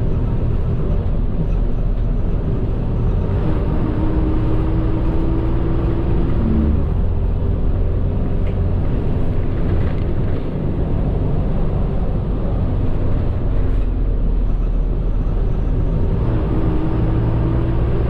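Medium bus engine and road noise heard from inside the cabin while driving: a steady low rumble. An engine whine climbs for a few seconds and drops off about six seconds in, then starts climbing again near the end.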